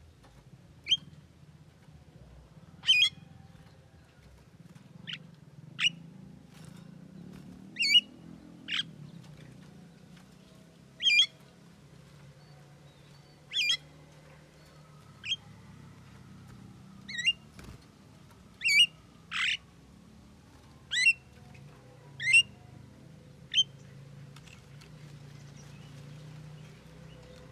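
Javan myna (jalak kebo) giving about twenty short, sharp calls in irregular succession, stopping a few seconds before the end. A steady low hum sits underneath.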